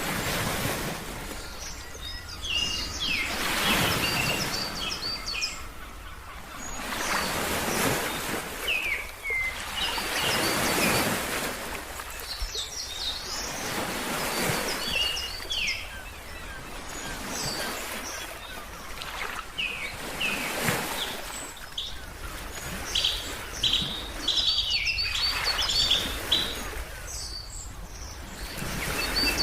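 Ocean waves washing in slow swells every few seconds, with small birds chirping repeatedly over them; the chirping is busiest near the end.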